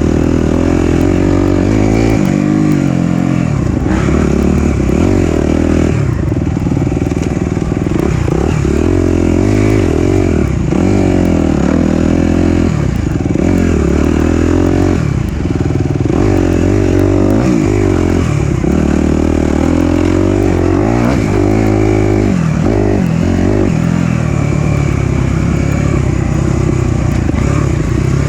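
Four-stroke dirt bike engine revving up and down over and over, its pitch rising and falling every second or two as the rider throttles on and off along the trail.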